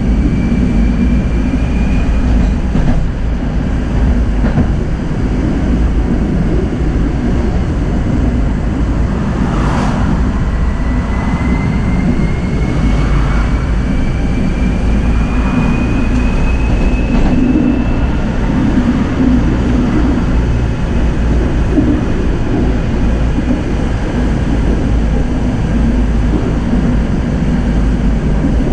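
Tram running along its line: a steady low rumble of the wheels on the rails, with a thin whine that climbs slowly in pitch as the tram speeds up, starting about ten seconds in. A few brief knocks from the track come through.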